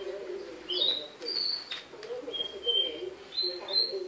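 Small birds chirping: short, clear whistled notes, a few of them sliding upward, coming every second or so, over a low wavering sound that runs underneath.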